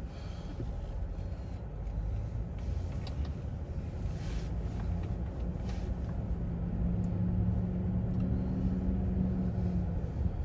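A car driving, heard from inside the cabin: low road rumble with a steady engine hum that grows louder from about halfway through.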